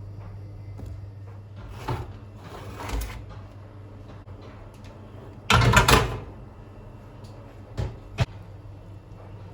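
Kitchen handling noises: a couple of knocks and a short scraping stretch, a loud clatter about halfway through, then two sharp clicks, over a steady low hum.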